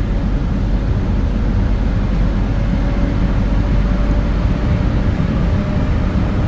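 Automated airport people-mover tram running along its guideway, heard from inside the cabin: a steady low rumble with a faint thin whine over it.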